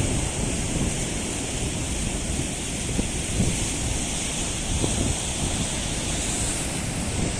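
Storm wind buffeting the microphone in uneven low gusts, over a steady hiss.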